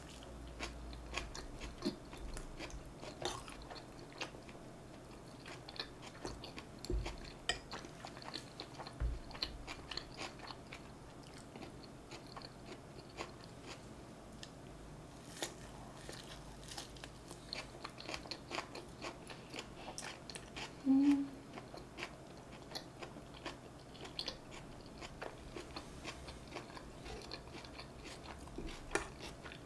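Close-miked biting and chewing of North Korean tofu rice, fried tofu pouches stuffed with rice and topped with spicy sauce, with many small wet mouth clicks. A brief low hum about two-thirds through is the loudest moment.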